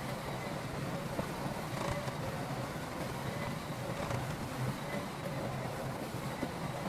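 Heavy diesel construction machinery, a bulldozer or dump truck, running steadily with a continuous low drone and a faint wavering higher tone.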